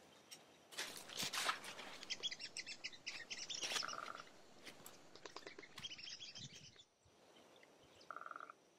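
A songbird singing two fast trills of rapidly repeated high notes, each followed by a short, steady lower note. Heavy canvas tarp fabric rustles as it is handled near the start.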